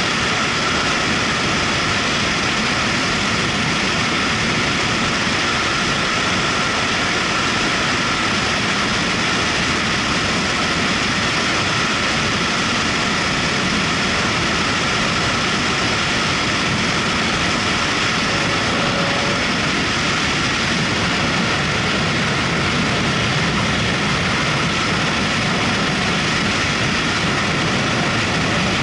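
Motorcycle under way at a steady speed: the engine runs evenly, mixed with a constant rush of wind and road noise.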